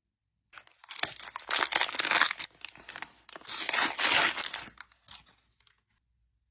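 Toy packaging being torn open with crinkling, in two rustling bursts of a second and a half or so each.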